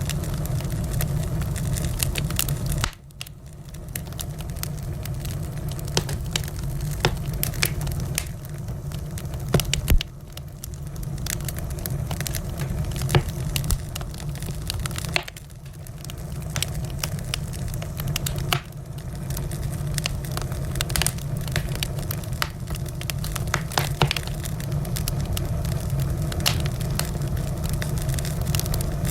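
Wood fire crackling, with frequent sharp pops and snaps over a steady low rumble. The sound dips suddenly for a moment a few times.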